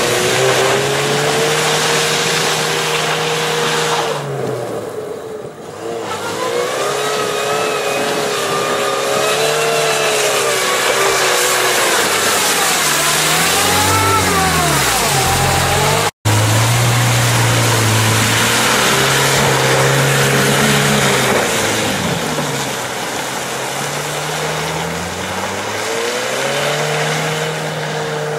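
Chevrolet Niva's engine revving hard as its wheels spin through deep mud, the pitch climbing and falling again and again over a steady hiss. There is a brief dropout about halfway through.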